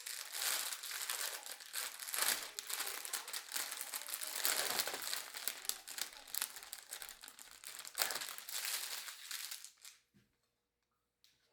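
Continuous crinkling and crackling of something being handled, stopping abruptly near the end.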